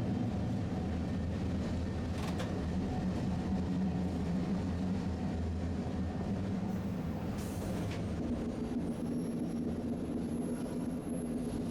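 Tosaden streetcar running along its line, a steady low hum and rumble of motors and wheels on rail. There is a sharp click about two seconds in, and a short hiss about seven and a half seconds in.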